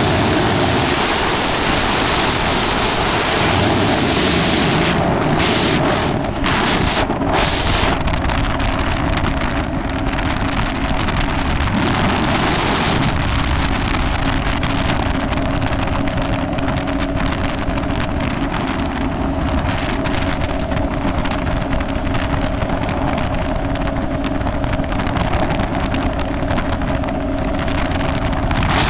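Yamaha jet ski engine running steadily at speed, its hum holding an even pitch, with wind buffeting the microphone. A few short bursts of rushing hiss come in the first half.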